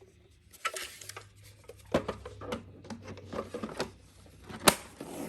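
Handling noise from a Roomba i7+ robot vacuum and its bin: irregular clicks, knocks and rustles, with one sharp click near the end.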